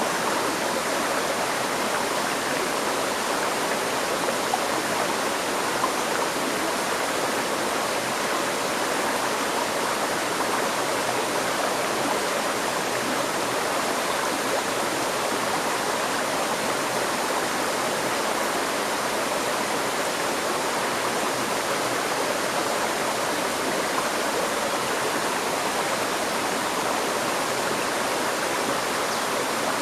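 River stream water flowing and rushing steadily over rocks, a continuous, even splashing noise.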